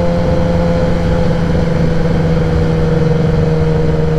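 2016 Kawasaki ZX-10R's inline-four engine through a Graves race exhaust, running steadily at low revs, its pitch easing slightly lower.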